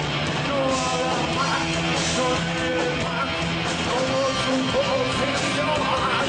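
Rock band playing, with guitar and a singing voice holding wavering notes over the dense band sound.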